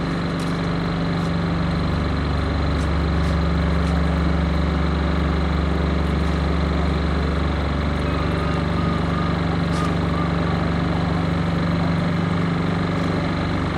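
Steady, loud engine drone with a deep, unbroken hum that does not rise or fall.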